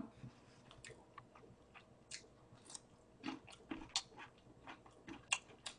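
A person chewing food close to the microphone: faint, irregular crunches and mouth clicks.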